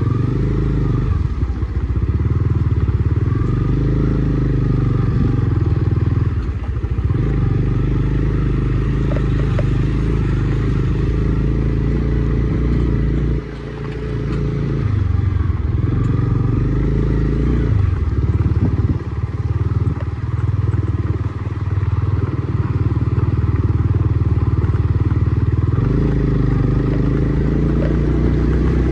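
Honda CB300R's single-cylinder engine running under way, its note shifting up and down every few seconds with throttle and gear changes and easing off briefly about 13 seconds in.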